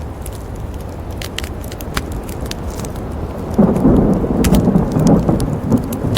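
A rumble of thunder rolls in about three and a half seconds in and lasts a couple of seconds, over a steady hiss and the scattered sharp crackling pops of a campfire.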